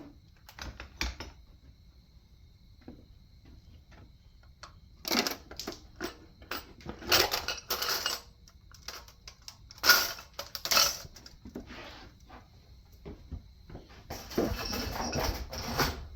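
Metal engine parts and hand tools clinking and clattering as an engine is taken apart: a scatter of sharp clinks, then a longer stretch of rattling near the end.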